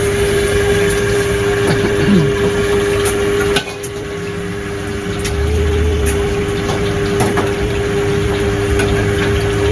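A steady mechanical hum under light clinking and clatter of dishes and utensils. The level drops abruptly about three and a half seconds in, then builds back up.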